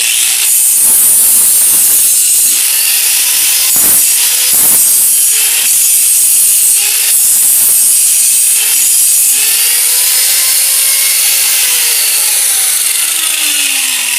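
Handheld power grinder grinding on a chainsaw chain: a loud, continuous hiss of abrasive on steel over a motor whine whose pitch sags and rises as the tool bites. There are a couple of knocks about four seconds in.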